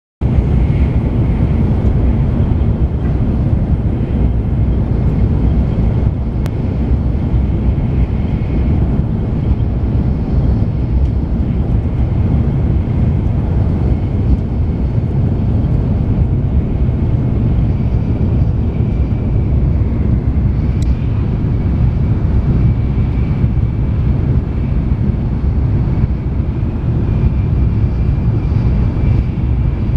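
Steady low rumble of a Shinkansen bullet train running at speed, heard inside the passenger cabin.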